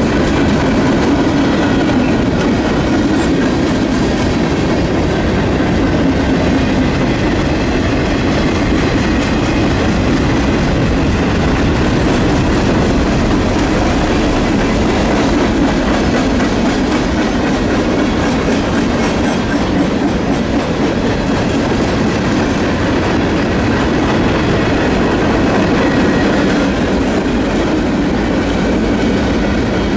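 Freight cars of a mixed freight train (boxcars, tank cars and covered hoppers) rolling past at close range: a steady loud rumble and clatter of steel wheels on the rails.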